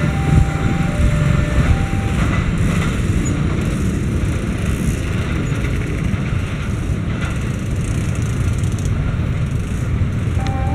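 Empty freight train's flat wagons rolling past on the rails with a dense, steady wheel rumble. For the first couple of seconds a level-crossing warning alarm sounds over it, alternating between two tones.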